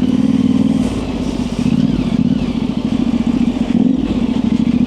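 Yamaha Ténéré 700's parallel-twin engine running steadily at low revs through an aftermarket high exhaust, easing off briefly about a second in and again near the end as the throttle is worked on the trail.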